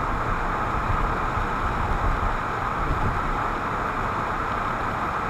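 Steady road and engine noise inside a moving car, picked up by a windshield-mounted dash camera: an even rushing hiss over a low rumble.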